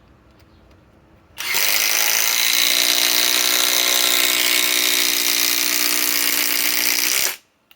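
SKIL PWRCore 20 cordless impact driver driving a long TimberLok screw into wood. It starts about a second and a half in, runs steadily for about six seconds, and stops abruptly near the end.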